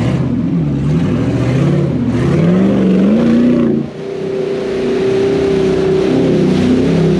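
A four-wheel drive's engine revving hard under load, its pitch rising and falling; about four seconds in the sound dips sharply, then comes back held high and steady.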